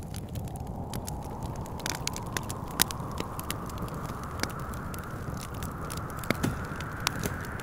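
Wood fire crackling with irregular sharp pops, a few louder than the rest, over a steady low wind rumble. A whistling wind howl rises slowly in pitch underneath.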